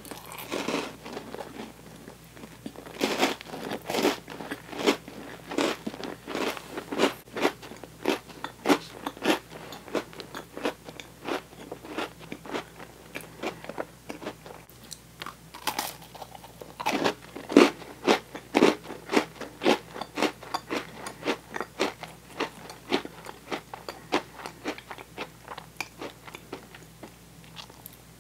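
Close-miked chewing of sticky toasted marshmallow: wet mouth clicks and smacks, about two a second.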